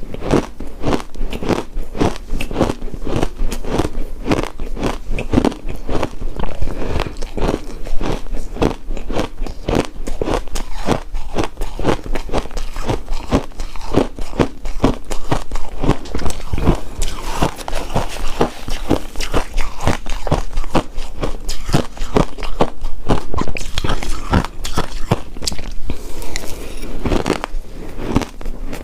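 Close-miked chewing of shaved ice: dense, rapid crunching, several crunches a second.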